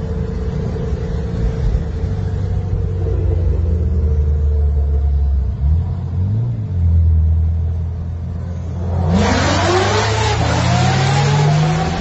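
Car engine running with a steady low drone and a brief rise and fall in pitch about six seconds in. About nine seconds in a loud rushing noise starts suddenly, with tones that rise and fall.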